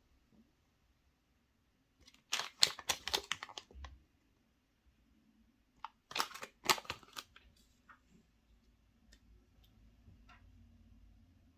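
Two short bursts of crackling and crinkling from a chocolate egg's foil wrapper and packaging being handled and torn open, with a few scattered light clicks in between and after.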